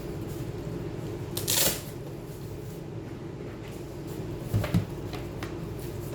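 Handling noises over a steady low hum: a brief rustling scrape about one and a half seconds in, then two light knocks near the end.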